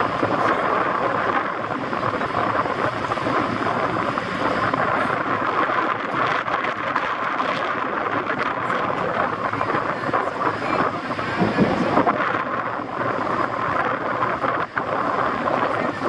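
Wind buffeting the microphone, a dense, steady rumbling rush with irregular gusty flares, over outdoor ambience.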